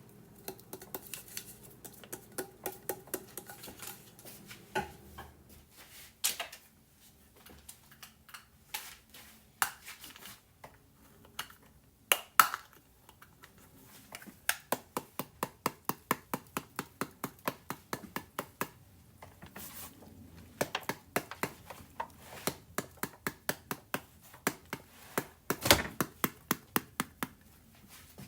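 Kitchen knife chopping on a cutting board: a few scattered knocks at first, then runs of quick, even strokes at about three to four a second from about halfway in.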